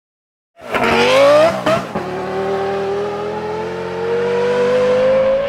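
Car engine accelerating hard, its pitch climbing fast, dropping sharply just under two seconds in like a gear change, then rising slowly and steadily again.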